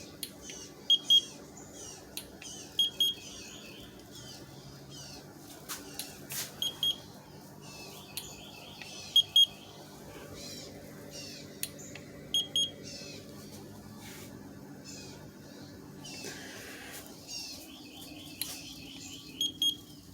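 Alpicool C55 portable fridge-freezer running with a faint, steady low hum. Over it come short, high beeps in pairs, recurring every couple of seconds, along with quick high chirps and a few clicks.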